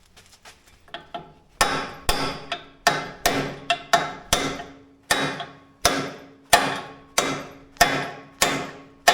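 Hammer blows on steel, driving a part into place. A few light taps come first, then a steady run of hard blows, about one and a half a second, each ringing briefly.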